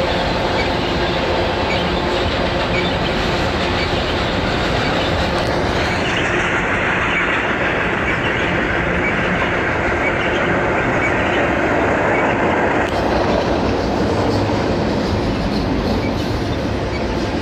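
Double-stack container well cars of a BNSF freight train rolling past: a steady rumble and rattle of wheels on rail, with a brighter hiss over it from about six seconds in until about thirteen seconds in.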